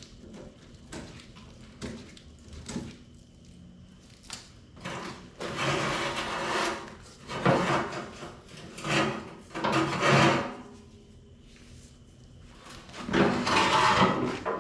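Clicks and knocks, then several loud stretches of scraping and clunking from about five seconds in and again near the end, from hands and tools working on the rusty case of a Lincoln AC180S tombstone welder as its old cables are taken off.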